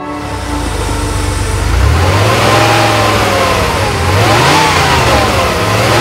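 Air-cooled turbocharged flat-six engine of a 1991 Porsche 911 (964) Turbo 3.3, running at low revs and then revving up about two seconds in, with the revs rising and falling several times.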